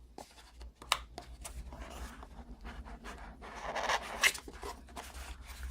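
Phone box packaging being handled: rustling and rubbing with a few sharp clicks, the rustle swelling in the middle.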